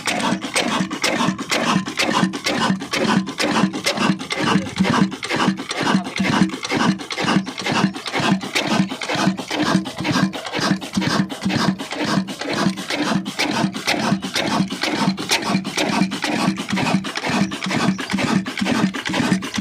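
Old Ruston diesel engine running steadily after its start, with an even, rapid knocking beat of several strokes a second.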